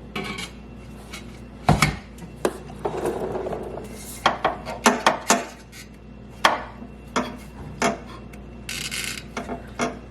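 AWE Track Edition exhaust tailpipe clanking and scraping against the mid-pipe and hanger as it is worked into place by hand. There are a dozen or so sharp metal knocks, several in quick succession about four to five seconds in, and two longer scrapes, one about three seconds in and one near the end.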